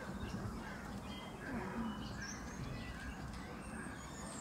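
Outdoor ambience of small birds chirping in short, scattered notes over a steady low background rumble.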